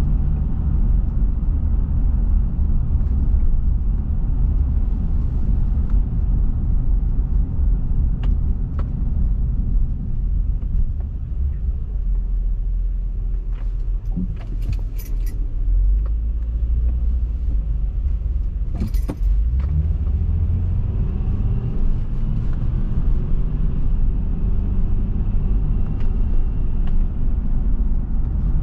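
Car driving at road speed: a steady low rumble of tyres and engine. A few short clicks come about halfway through and again a few seconds later.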